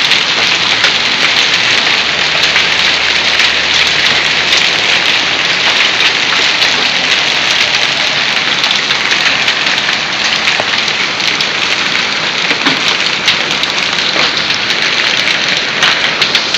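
Heavy storm rain mixed with hail hitting grass and a concrete driveway: a steady, loud hiss with dense small ticks of impacts throughout.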